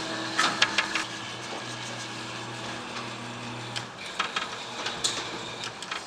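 Claw machine motors whirring steadily, stopping about four seconds in, with a scatter of mechanical clicks and knocks from the crane.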